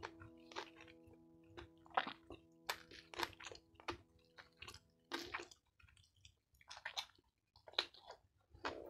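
Close-up wet chewing and mouth smacks of a person eating rice and beef: short irregular clicks and squelches throughout. Faint sustained background music fades out about halfway through.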